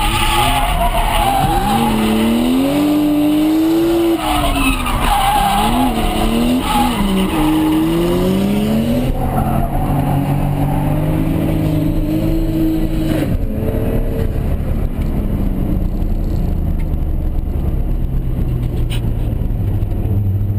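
Turbocharged Toyota 1JZ straight-six in a Mark II, heard from inside the cabin, revving up and down hard as the car drifts, with tyres skidding. About two-thirds of the way through, the revs settle lower and steadier.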